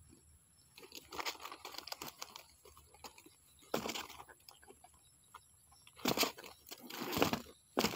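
Rustling and crinkling handling noise in irregular bursts, the loudest two near the end.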